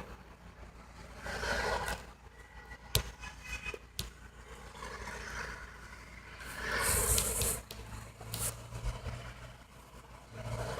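Faint road noise of a passing car, swelling to a hiss with a low engine tone about two-thirds of the way in, with a few sharp clicks.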